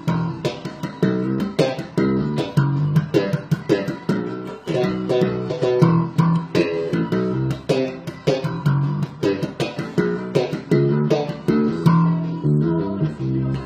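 Electric bass guitar playing a forró line in a quick, bouncing rhythm of short plucked notes with sharp attacks.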